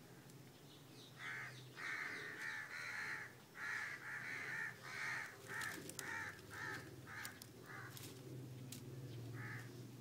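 A bird giving a run of about a dozen harsh, hoarse calls, starting about a second in and becoming shorter and quicker, with one last call near the end.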